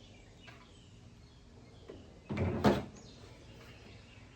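A short knock and clatter a little past halfway through, ending in a sharp click, against a quiet background.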